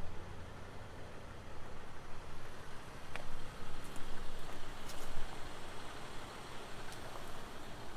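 Toyota Sienna's 3.5-litre V6 idling with a steady low hum, with a few light clicks.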